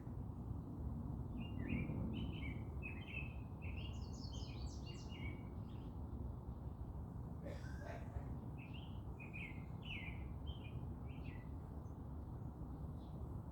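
Songbirds singing in a garden: a run of quick, high chirping phrases starting about a second in, then a second run after a short pause, all over a steady low background rumble.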